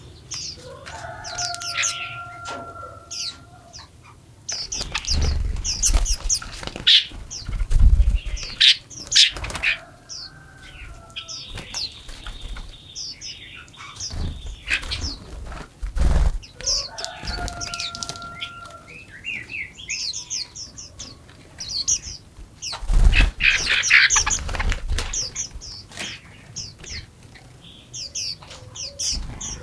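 Forest songbirds chirping and singing, with many quick high chirps and a clear whistled two-note phrase repeated every several seconds. Two spells of loud low rustling or fluttering stand out, one from about five to ten seconds in and another around twenty-three seconds in.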